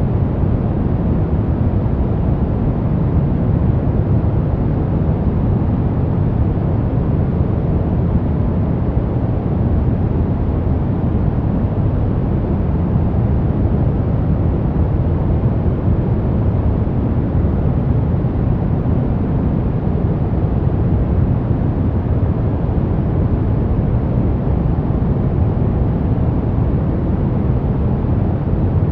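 Continuous synthetic noise from a relaxation white-noise track, unchanging throughout. It sounds deep and muffled rather than hissy, with most of its weight low down.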